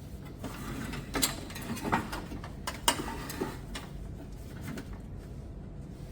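Handling noise: several clicks and knocks as parts are moved about, the sharpest about three seconds in, over a steady low hum.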